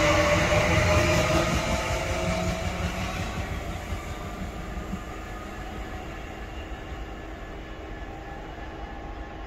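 A train running through and moving away. Its running noise, with a steady hum in it, is loud at first and fades over the first five seconds or so, leaving a low rumble.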